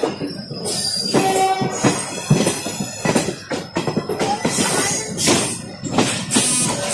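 Passenger train running at speed, heard from the open doorway of a coach: wheels clattering over the track with irregular knocks and rattling.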